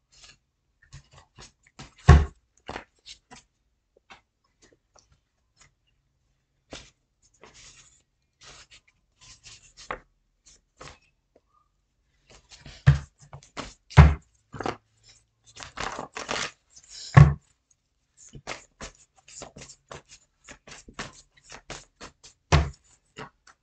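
Tarot cards being handled and shuffled: irregular soft clicks and rustles, a denser run of shuffling about two-thirds of the way in, and five louder knocks spread through.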